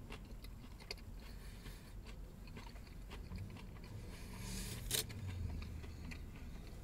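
Faint chewing of a mouthful of burger, with small wet mouth clicks, and a sharp rustle about five seconds in.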